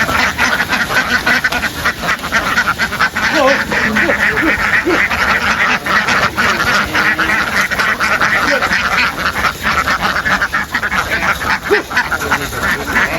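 A large flock of domestic ducks quacking continuously, many calls overlapping into a dense, loud din.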